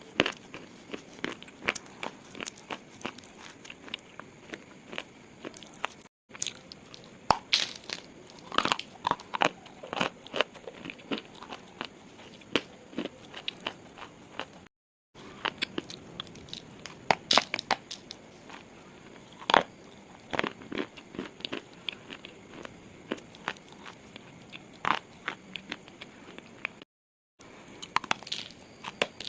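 Pieces of slate being crunched and crumbled: a dense run of sharp crunches and crackles, broken by three very short dead-silent gaps.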